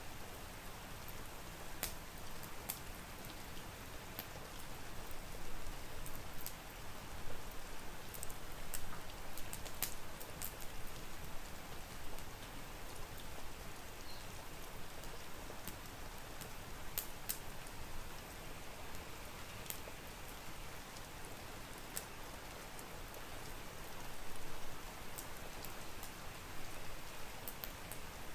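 Steady rain with scattered, irregular sharp crackles of a wood fire burning in a fireplace.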